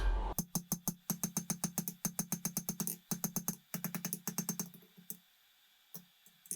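Blacksmith's hammer striking steel on an anvil in a fast, even run of blows, about six a second, each with a short ring. The blows stop about five seconds in, and two single taps follow near the end.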